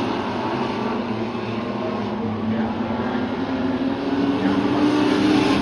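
Short-track racing trucks' engines running hard around the oval. The engine note rises and grows louder near the end as the trucks come closer.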